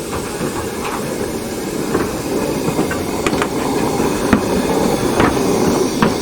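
Steam locomotive working close by: a steady rush of steam and running noise that grows gradually louder, with a few sharp metallic knocks in the second half.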